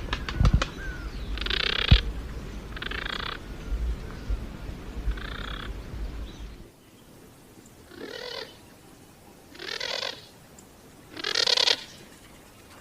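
Harsh, rasping pigeon calls, presented as the voice of the extinct passenger pigeon: six short grating calls, each under a second, about one every two seconds. A low rumble with a few knocks underlies the first half and cuts off abruptly about halfway through.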